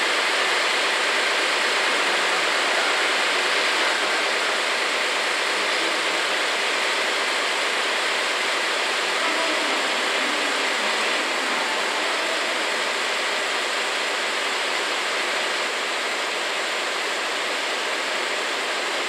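443-series electrical inspection car (KuMoYa 443) running slowly along the station track: a steady, even rushing noise with no distinct beats, and a faint wavering tone about halfway through.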